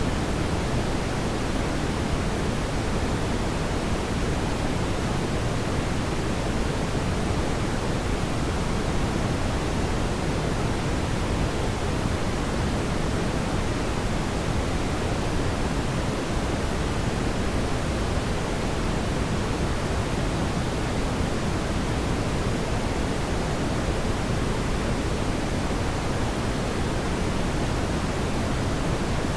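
Fire burning in a fireplace, heard as a steady, even rushing noise weighted toward the low end, with no distinct crackles or pops standing out.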